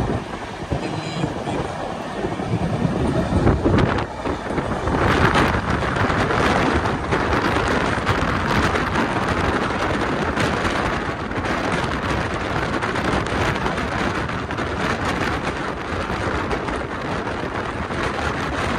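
Rajdhani Express passenger train running along the track, heard from outside the coach: a steady rush of wind buffeting the microphone over the rumble of the wheels on the rails. The rush grows fuller about five seconds in.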